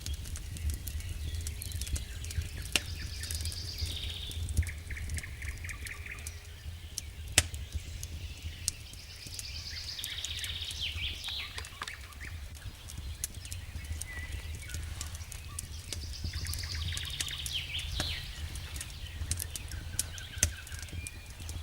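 Wood fire burning in a fireplace, with scattered sharp crackles and pops over a steady low rumble. Bird chirps come in three times, about every seven seconds.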